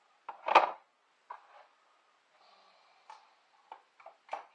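Small hard objects being handled: a loud knock or clatter about half a second in, then scattered light clicks and taps.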